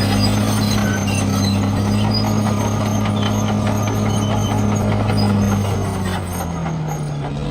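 Bulldozer's diesel engine running steadily under load; its pitch sags and it quietens a little about six seconds in.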